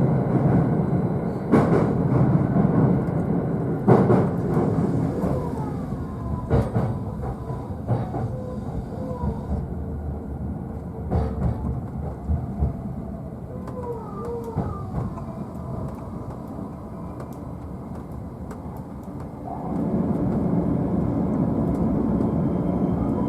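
JR East E531 series electric train braking into a station, heard from the upper deck of a double-deck car: running noise with a few widely spaced rail-joint knocks and short brake squeals, dying down as it slows almost to a stop. About 20 seconds in a steadier, louder noise comes up again.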